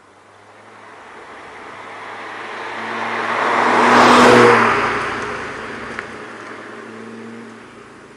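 Seat Leon Cupra 280 with an Eisenmann cat-back exhaust driving past: its turbocharged 2.0-litre four-cylinder grows louder to a peak about four seconds in, then fades away.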